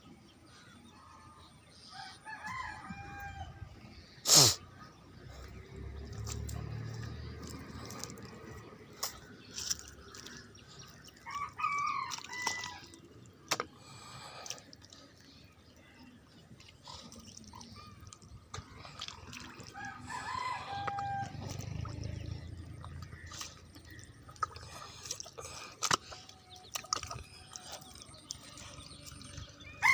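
Rooster crowing three times in the distance. A brief sharp sound about four seconds in is the loudest thing.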